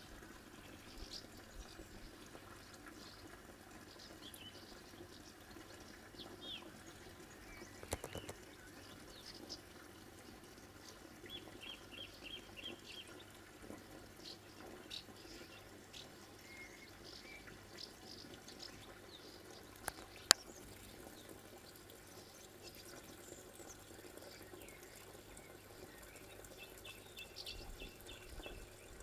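Faint outdoor ambience with small birds chirping, including two short trills of quick repeated notes, over a low steady hiss. A small knock about eight seconds in and a sharp click about twenty seconds in stand out.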